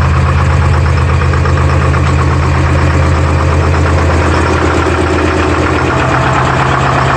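Detroit Diesel 4-53 two-stroke diesel in a Clark skidder idling steadily just after a cold start, following a long time sitting unused.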